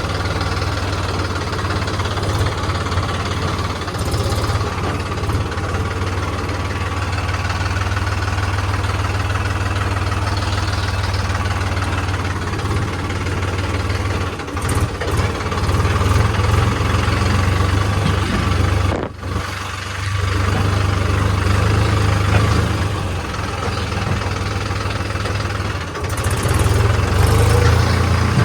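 Heavy diesel engine running steadily at a low, even hum, briefly dropping away about two-thirds of the way through.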